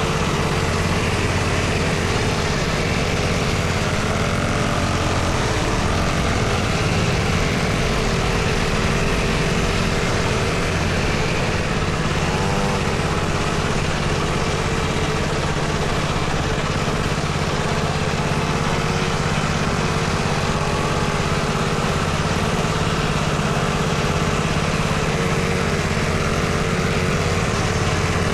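Small dirt bike engine running steadily, its pitch wavering slightly.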